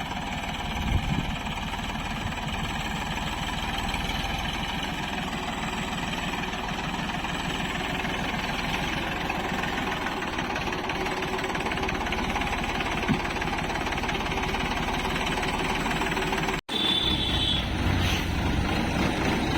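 Heavy diesel engine of a backhoe loader or tractor running steadily under work. About three-quarters of the way through it cuts out abruptly for an instant, then comes back louder.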